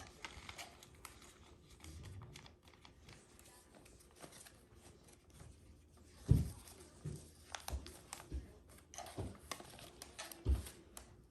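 Paper being handled and folded on a table: scattered light clicks and rustles, with a few soft thumps from about six seconds in.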